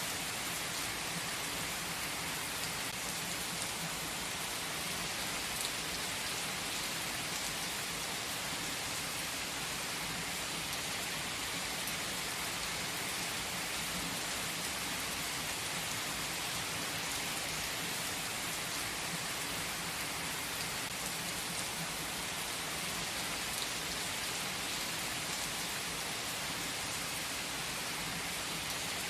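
Steady rain, an even hiss with faint scattered drop ticks and no change throughout.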